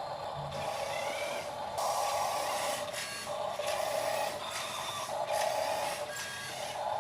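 Small electric motor and gearbox of an RC model Fendt tractor whining in on-off spurts of about a second each, straining to pull an overloaded trailer.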